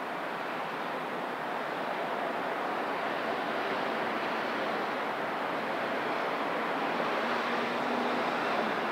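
Rain falling steadily during a thunderstorm, an even hiss that swells slightly louder over the seconds.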